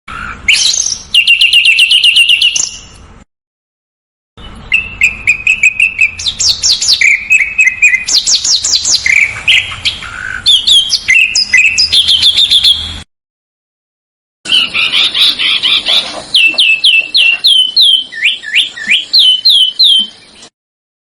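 A small songbird singing rapid, tightly spaced trills and chirps in three phrases, each cut off abruptly by silence. The last phrase is a run of repeated down-slurred notes at about two to three a second.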